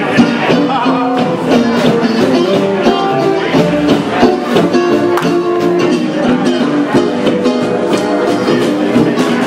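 Up-tempo gypsy jazz swing music: acoustic guitars strumming a steady, even beat under a moving lead melody.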